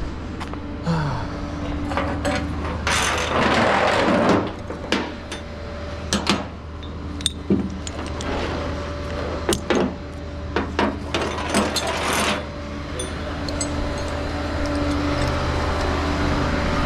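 Steady engine drone of a tow truck heard from inside the cab, with scattered clicks and knocks and two louder rushing stretches, about three seconds in and again near eleven seconds.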